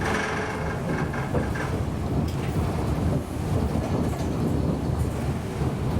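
Siemens Avenio tram running along the track, a steady rumble of wheels on rail with scattered clicks. A faint high tone sounds over the first second and a half, then fades.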